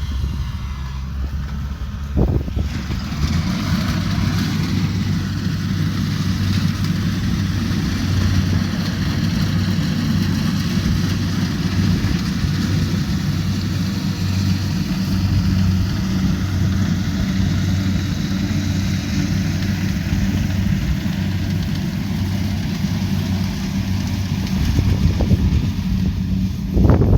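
Kubota DC70 Pro combine harvester's diesel engine running steadily with a low hum. A higher hiss of machinery joins about two seconds in, and there is a brief louder burst near the end.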